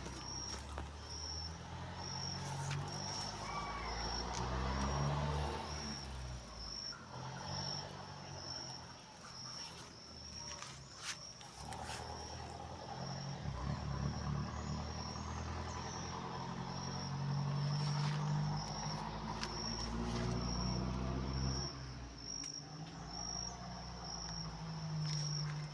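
An insect chirping steadily, a short high pulse a little more than once a second, over a low droning rumble that swells and fades, with a few faint clicks.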